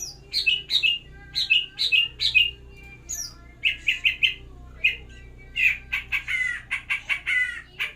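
Cucak ijo (leafbird) calling: a string of sharp, high chirps that sweep downward in pitch, coming in quick groups of two to four with short pauses, then a faster, denser chattering run near the end.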